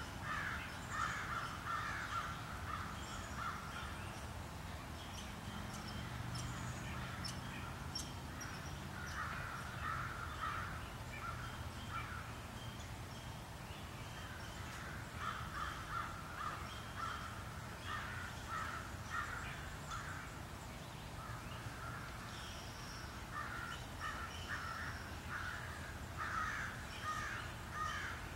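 Birds calling in the tree canopy: several bouts of short calls repeated in quick runs, over a steady low background hum.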